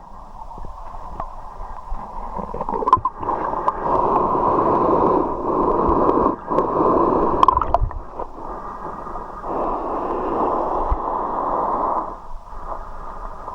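Muffled river water gurgling and rushing, swelling and fading over a few seconds at a time, with a few sharp knocks and clicks.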